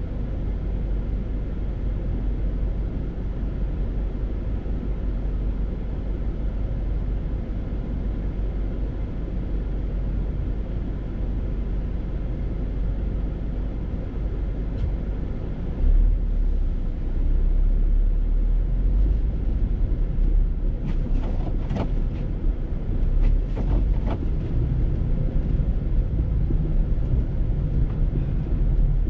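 Steady low rumble of a vehicle on the move, which grows louder about sixteen seconds in, with a few faint knocks a few seconds later.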